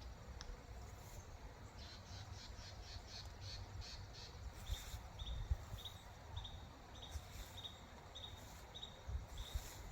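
A bird calling repeatedly: a quick run of high notes, then short high calls about twice a second. A low wind rumble lies underneath.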